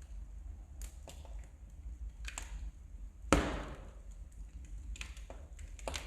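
Wood fire crackling in a fireplace: scattered sharp snaps over a low steady rumble, with one loud pop a little past halfway.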